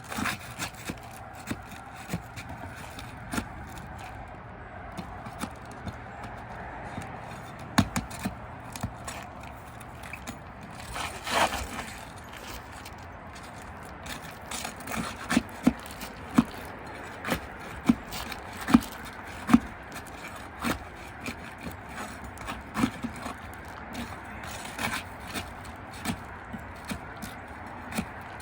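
Shingle nails being worked out from under asphalt shingle tabs: scattered clicks and scraping of a tool against the shingles, a longer scrape about eleven seconds in, then a run of sharp knocks roughly one a second.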